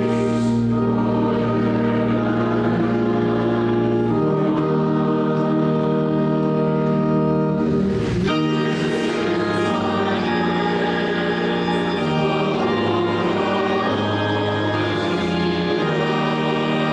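A hymn sung by many voices with organ accompaniment, in long held chords that change every second or two, with a short break between phrases about eight seconds in.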